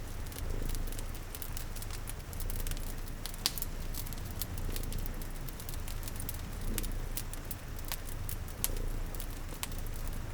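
Fireplace crackling with scattered sharp pops over the steady patter of rain, and a cat's low purr underneath.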